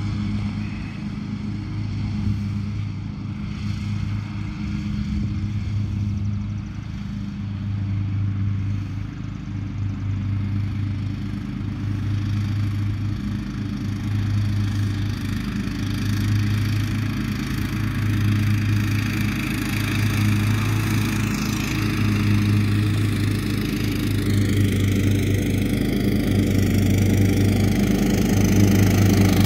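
Cub Cadet LT42 riding lawn mower's engine running steadily while mowing, gradually getting louder toward the end.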